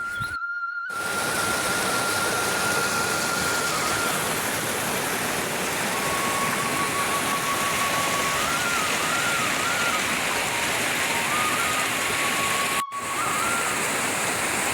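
Steady rush of flowing water, with a faint thin melody line playing over it.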